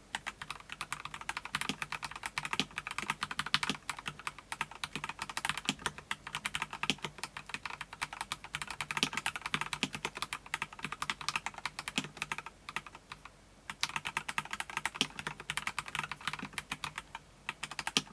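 Mechanical keyboard being typed on rapidly and continuously, key after key clicking, with a brief pause a little past two-thirds of the way through.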